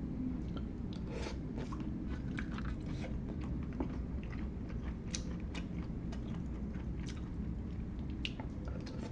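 Close-miked chewing and biting of hot pot food, with many small sharp mouth clicks and crunches at an uneven pace.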